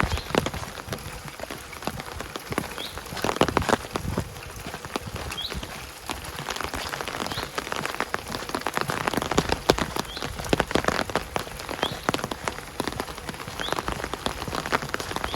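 Steady rain falling, with many irregular close drops pattering on a surface, and a few faint short high chirps now and then.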